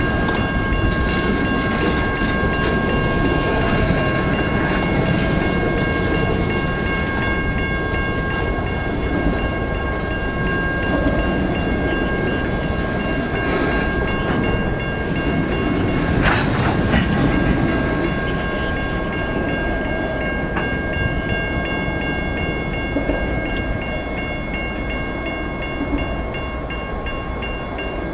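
Freight train gondola cars rolling past at close range: steady wheel-on-rail rumble with a faint clickety-clack of wheels over the rail joints, and several steady high-pitched tones ringing over it.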